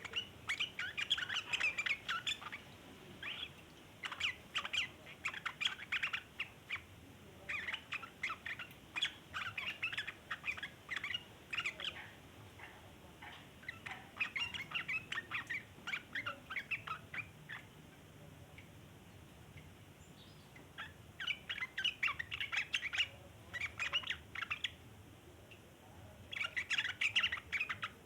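Yellow-vented bulbul (trucukan) giving long runs of fast chattering calls, the ngeriwik call, in bouts of several seconds with short breaks and one longer pause about two-thirds of the way through.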